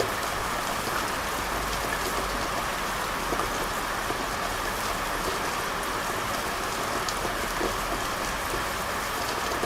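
Steady rain falling on hard surfaces, a constant hiss with scattered individual drops and a low rumble underneath.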